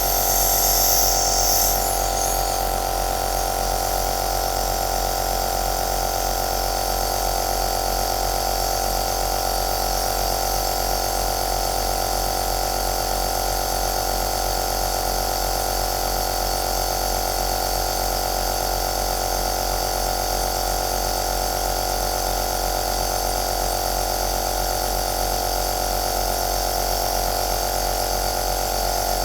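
Electric aerosol nebulizer's compressor running steadily: a motor hum with several steady tones and a hiss of air over it. A brighter high hiss at the start drops away about two seconds in.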